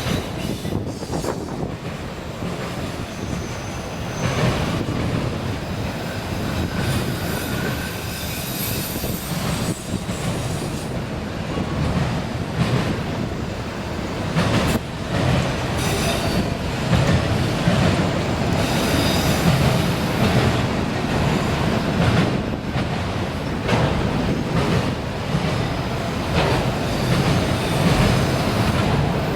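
Freight train cars rolling past, with a steady rumble and clatter of wheels on the rails and thin, high-pitched wheel squeal coming and going.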